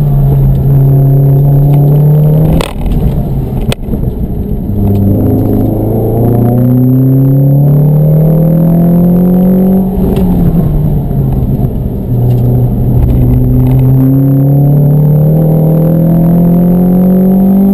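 Mountune-tuned Ford Fiesta ST's 2.0-litre four-cylinder engine under hard acceleration, heard from inside the cabin. The revs drop briefly with a lift-off and two clicks about three seconds in, then climb steadily, fall at an upshift about ten seconds in, and climb again.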